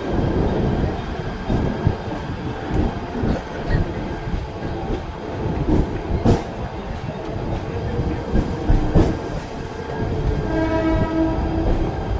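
Mumbai suburban electric local train running slowly, heard from its open doorway: a continuous rumble of the carriage with scattered sharp clicks of the wheels over rail joints. About ten seconds in, a steady pitched tone joins it.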